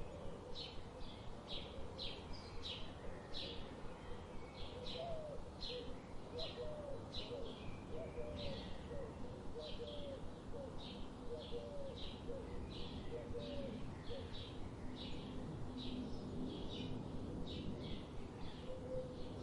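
Tropical forest birds calling: a steady series of short high chirps, about one and a half a second, with a second bird's low, wavering notes through the middle of the stretch.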